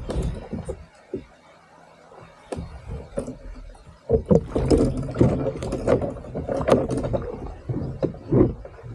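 Irregular knocks, bumps and rustling of handling aboard a fishing kayak, sparse at first and then busy and loud from about halfway through.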